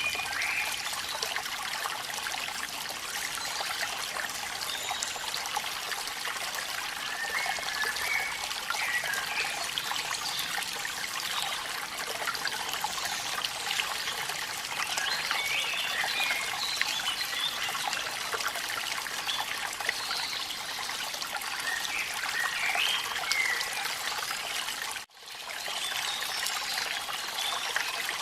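Waterfall's steady rush of falling water, with faint high chirps now and then. The sound drops out for a split second near the end.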